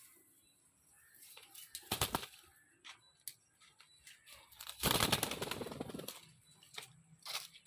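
A pet parrot making short, sharp clicks, scattered through, with a louder noisy burst lasting about a second about five seconds in.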